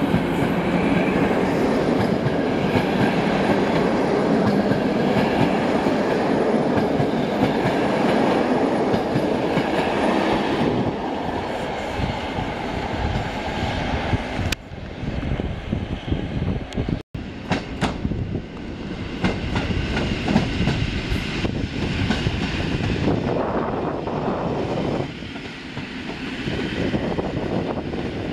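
Passenger train coaches rolling past close by, wheels clacking over the rail joints. After a sudden cut, a Polish EN57 electric multiple unit passes on a farther track, its wheels clacking more quietly.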